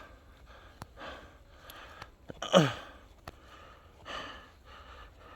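A man breathing hard from exertion, with heavy exhales and one loud groaning sigh that falls in pitch about halfway through. A few faint sharp clicks sound in between.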